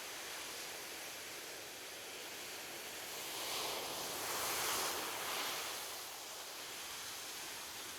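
Ocean surf washing on a beach, a steady hiss of water. One wave swells and breaks about halfway through, then recedes.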